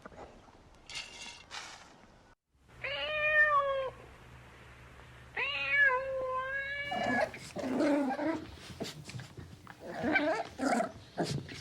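Domestic cat meowing: two long drawn-out meows, the second longer, followed by a run of shorter, rougher sounds.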